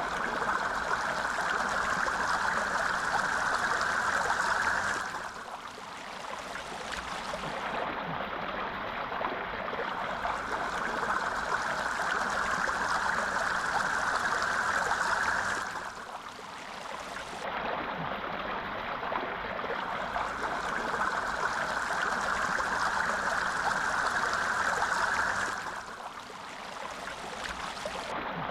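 A stream of clear water flowing and babbling steadily. The rush eases briefly about every ten seconds, then swells again.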